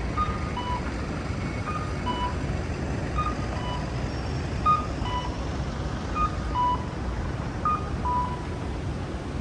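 Audible pedestrian crossing signal sounding a two-note falling electronic cuckoo call, repeating about every one and a half seconds, over steady city traffic rumble.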